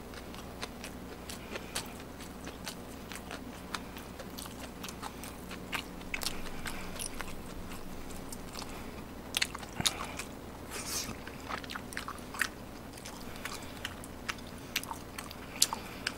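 A person chewing food close to the microphone: many small wet mouth clicks and smacks, with a few louder bites about ten seconds in.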